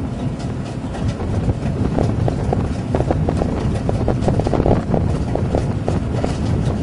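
Wind buffeting the microphone over open water, a steady low rumble, with many short sharp taps from about two seconds in.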